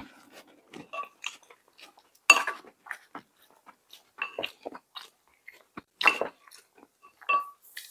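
Close-miked chewing and mouth smacking while eating, a run of short wet clicks with a few sharper, louder ones about two and six seconds in.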